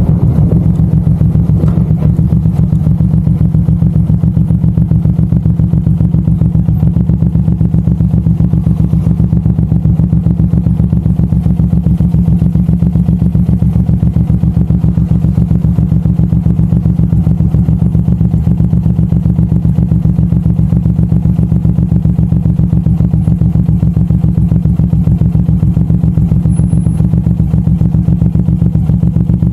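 Suzuki M109R's big V-twin engine running at a steady, unchanging low pitch, its firing pulses even throughout.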